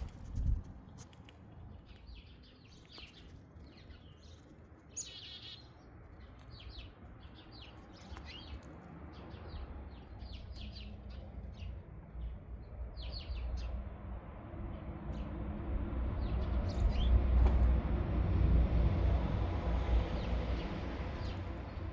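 Small birds chirping, many short high calls in quick succession. In the second half a low rumble builds and becomes the loudest sound a few seconds before the end.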